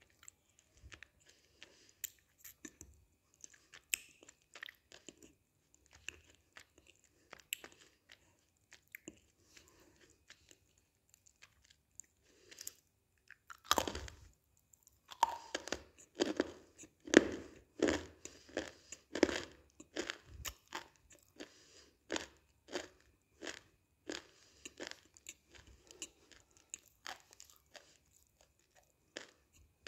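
Close-up chewing of roasted eating clay: faint moist mouth clicks, then a run of loud crunches about halfway through as a piece is bitten and crushed, easing back to quieter chewing.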